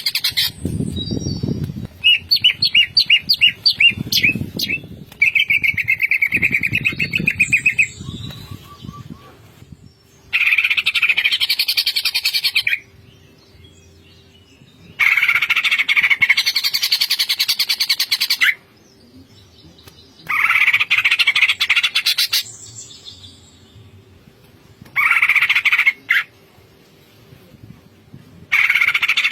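Cucak ijo (greater green leafbird) singing in rapid, dense bursts of two to three seconds with short pauses between. The early phrases are varied and the later bursts more uniform, in the aggressive 'ngentrok' style.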